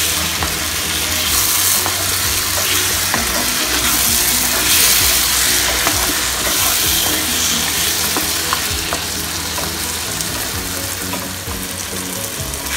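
Chicken pieces in thick masala gravy sizzling in a nonstick frying pan, stirred with a spatula that scrapes and clicks against the pan.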